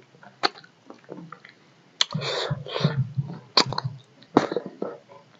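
Close-up eating sounds: a man chewing a mouthful of rice and fish curry. A series of sharp wet clicks, with a denser noisy stretch about two seconds in.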